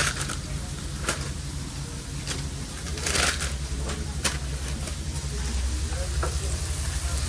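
Food truck kitchen work sounds: a steady low hum under scattered short clatters and rustles of burger preparation, about half a dozen in all, including a longer rustle about three seconds in.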